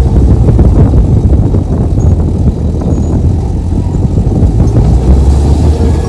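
Komatsu bulldozer's diesel engine running steadily under load, a loud, low rumble.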